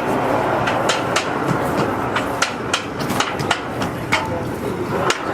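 Train equipment clicking and clacking on the track: sharp knocks come at uneven intervals, about a dozen of them, over a steady running noise.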